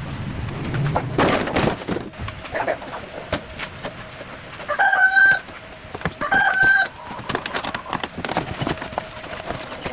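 A rooster crowing twice in quick succession, two short level-pitched calls about a second apart in the middle, over scattered light knocks and clatter.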